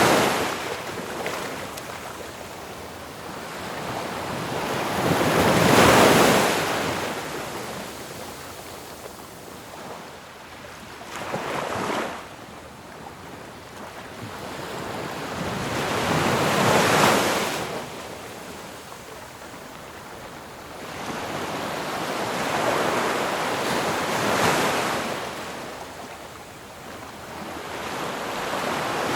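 Ocean waves breaking and washing up a shore, each one swelling to a loud crash and then fading, about every five to six seconds.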